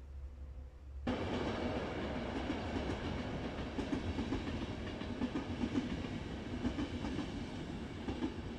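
Passenger train running past on the line, a steady rumble of wheels on rails that starts abruptly about a second in.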